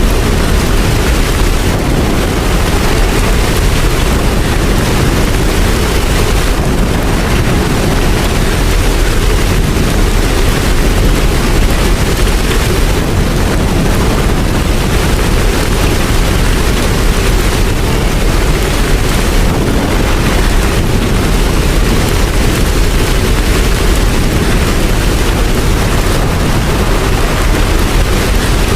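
Steady heavy rain, an even wash of noise with a deep low rumble underneath.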